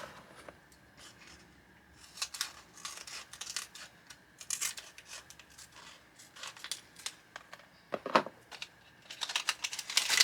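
A small packaging bag being opened and handled: bursts of rustling and crinkling, with a single soft knock a little after the middle and steadier crinkling near the end.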